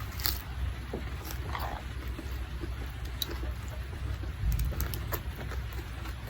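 Rain falling as an even hiss, with scattered small clicks and drips over a low steady rumble.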